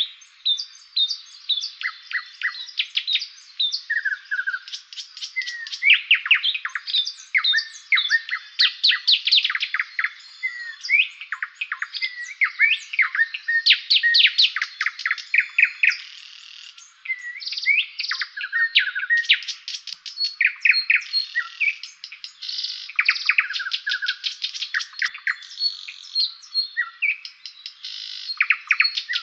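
Songbirds singing, several at once: fast trills, repeated chirps and short clear whistles in near-continuous overlapping song, with a brief lull about halfway through.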